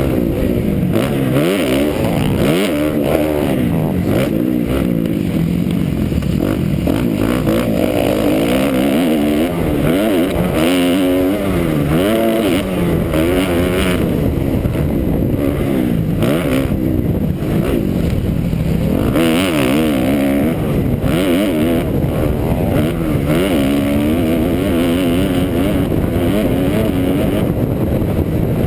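2009 Kawasaki KX250F's four-stroke single-cylinder engine being ridden hard, its revs rising and falling over and over as the throttle is worked and gears change.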